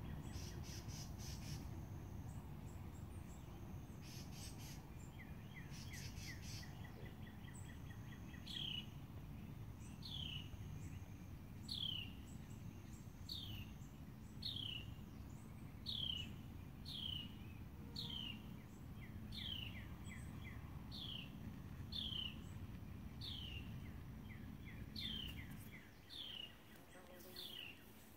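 A songbird calling over and over, a short falling chirp about once a second through the second half, with buzzy trills earlier on. A low steady background rumble drops away near the end.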